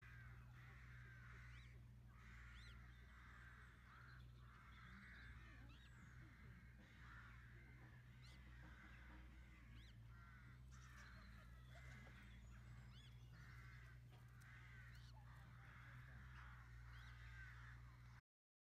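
Faint bird calls repeating about once a second, with thin, short high peeps among them, over a steady low hum. The sound cuts off just before the end.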